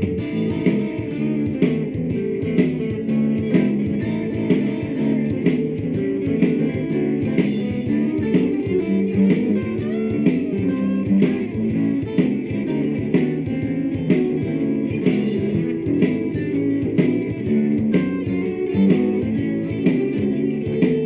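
Lava ME 4 guitar playing blues lines over a looped blues backing with a steady beat, its tone shaped by effects pedals.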